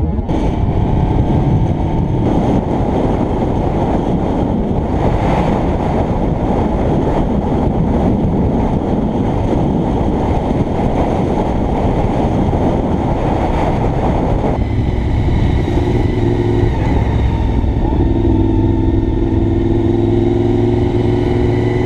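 Honda VFR750 motorcycle riding at speed, heard from a helmet camera: a steady rush of wind noise over the engine. From about two-thirds of the way through, the engine note stands out more clearly and rises slightly near the end as the bike picks up speed.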